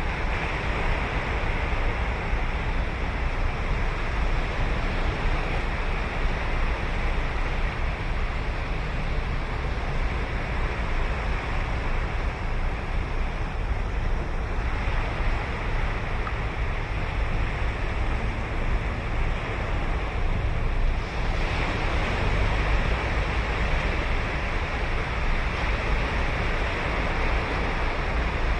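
Ocean surf breaking and washing up the beach in a continuous rush, with a fresh wave breaking about two-thirds of the way through. Wind buffets the microphone with a low rumble.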